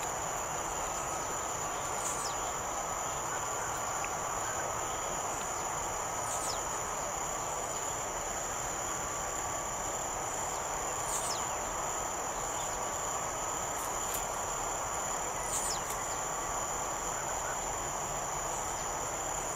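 A young blue-black grassquit repeats a short, high song note that falls sharply in pitch, about every four to five seconds. Under it is a steady, high insect drone.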